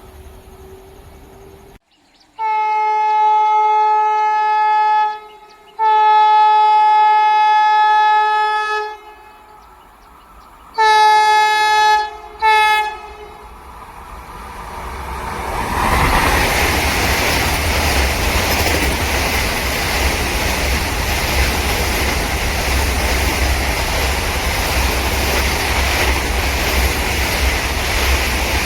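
Indian Railways electric locomotive sounding its horn: two long blasts, then a shorter one and a very short one. The train then comes up and runs past with a steady rumble and the clatter of wheels on the rails.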